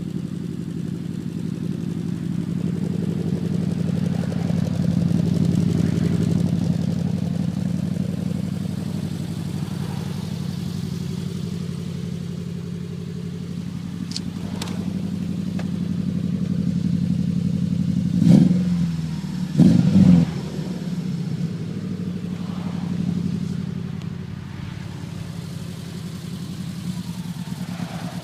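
A 2000 Subaru Impreza 2.5RS's 2.5-litre flat-four engine running steadily at idle through its exhaust. About two-thirds of the way through come two short, loud bursts roughly a second and a half apart.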